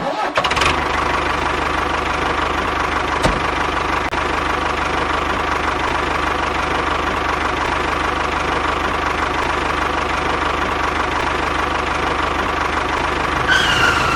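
Small electric hobby motor of a homemade mini tractor and flour mill model running steadily with a mechanical rattle. A single click comes about three seconds in, and a brief whine falls in pitch near the end.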